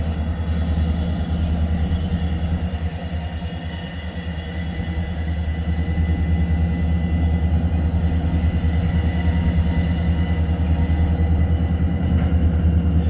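Freight train rolling by with a steady low rumble and a faint high steady tone, the rumble dipping briefly about four seconds in and then building again.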